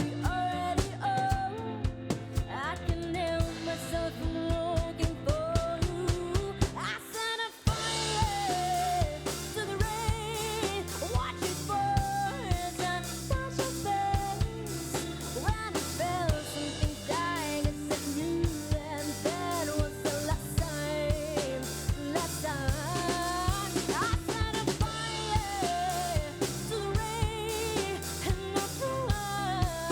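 Show band playing a song with a full drum kit beat and a gliding lead melody line over it, with a brief break about seven seconds in.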